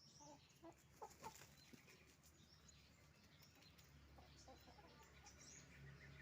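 Chickens clucking and calling faintly, with a cluster of short calls in the first second and a half, then sparser ones. A steady low hum runs underneath and grows a little stronger in the second half.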